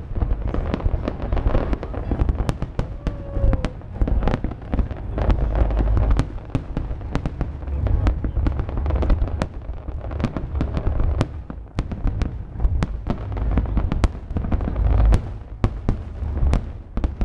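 Aerial fireworks display: a continuous barrage of sharp bangs and crackles from bursting shells over a deep rumble of booms, heaviest about five seconds in and again near the end.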